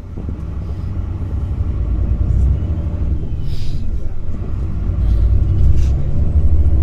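Bus engine and road rumble heard from inside the passenger cabin: a low, steady drone that grows gradually louder, with a brief hiss about halfway through.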